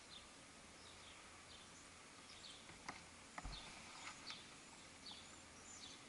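Small birds chirping faintly, short high chirps several times a second, with a couple of soft knocks a little before the middle.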